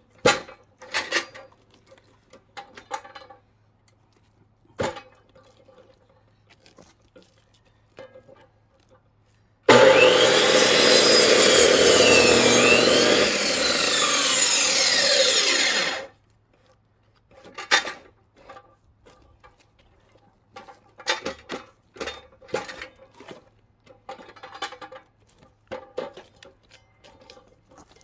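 Power saw cutting through firewood for about six seconds. It starts abruptly about ten seconds in and stops suddenly, and its pitch dips and recovers as the blade takes the load. Before and after the cut there are scattered knocks and clatters.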